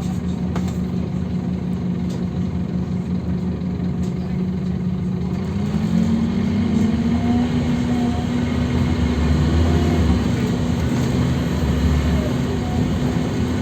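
Scania OmniLink city bus's diesel engine running steadily at low revs, then about five seconds in its pitch rises and it gets louder as it takes load and holds the higher note.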